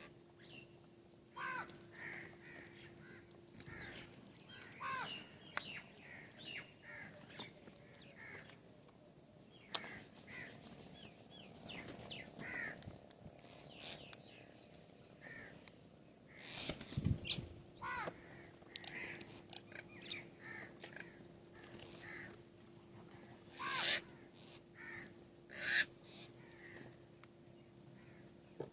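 Birds calling at a feeder: a steady stream of short chirps and calls, with a few louder calls near the end and a single low thump partway through. A faint steady hum runs underneath.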